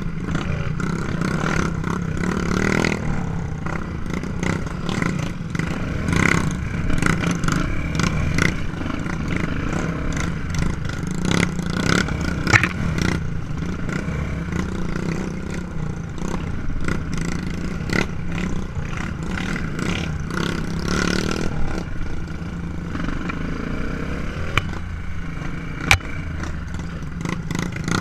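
Trail motorcycle engine running steadily, swelling now and then, with frequent clattering knocks over it.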